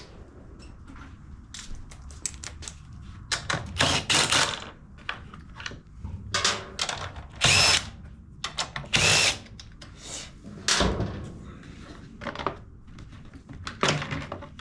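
Cordless drill-driver running in short bursts, about eight spins of half a second or so, backing out the screws that hold a generator's side panel, with a few knocks of the panel and tool between them.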